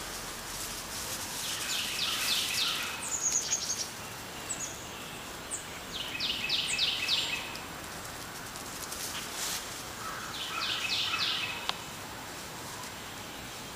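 A songbird singing a short phrase of four or five quick notes, repeated three times a few seconds apart, with a brief run of higher notes after the first phrase, over steady outdoor background noise.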